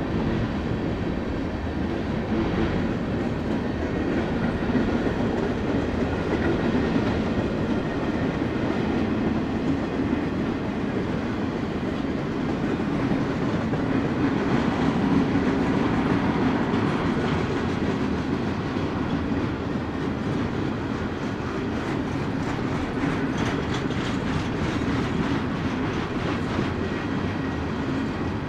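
Union Pacific freight train cars rolling past, a steady rumble of wheels on rail with the clickety-clack of wheels over rail joints.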